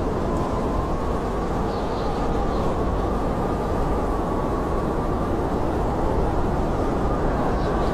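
Blizzard wind blowing steadily as a deep rushing, with a faint whistle that wavers in pitch.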